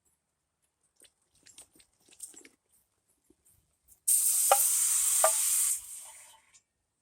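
A few light clicks and rustles, then a sudden loud sizzling hiss about four seconds in that holds for under two seconds and fades away: liquid hitting the hot pot or burner of a lit alcohol camp stove.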